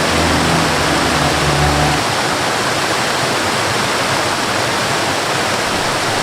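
Waterfall rushing in a steady, dense hiss. Over the first two seconds a few low sustained melody tones sound beneath it, then cut off, leaving only the water.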